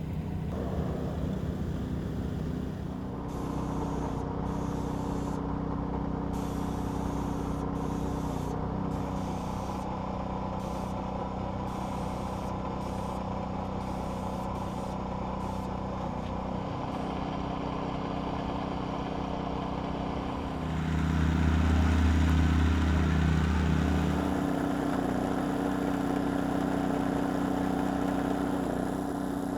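A vehicle engine running steadily, growing louder and deeper for about three seconds roughly two-thirds of the way through, then settling back.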